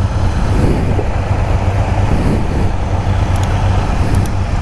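Motorcycle engines idling, a steady low hum.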